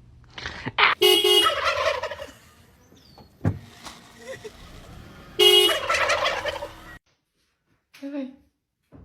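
Two loud animal calls about four seconds apart, each lasting a second or more, with a short knock between them and a brief fainter call near the end.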